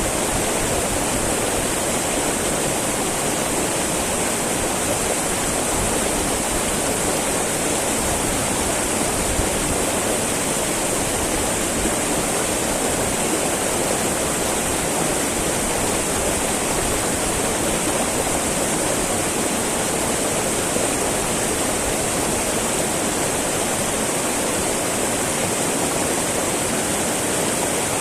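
Small mountain river babbling and rushing over rocks, a steady, unbroken water noise.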